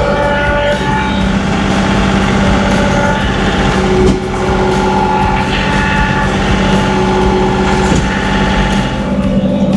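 A John Deere 2038R compact tractor's diesel engine running steadily under load while plowing snow, with a constant drone.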